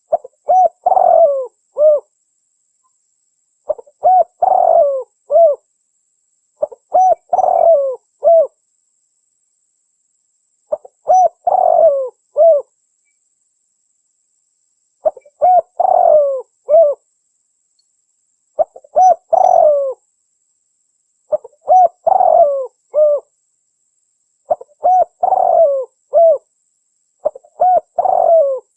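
Recorded spotted dove (tekukur) song: a phrase of several coos repeated about every three seconds, nine times over. It is a lure call for drawing wild doves to a trap.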